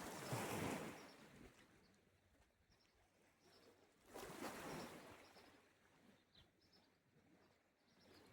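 Small sea waves washing onto the shore, one at the start and another about four seconds in, each swelling and fading away. Faint short bird chirps sound in the lulls between.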